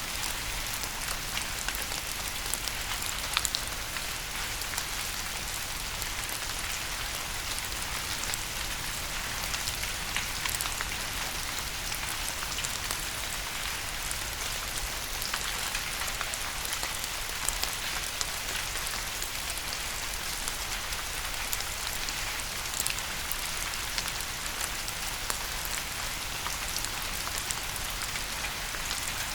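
Steady rain falling on a hard surface: an even hiss with scattered drop ticks and a few louder single drops.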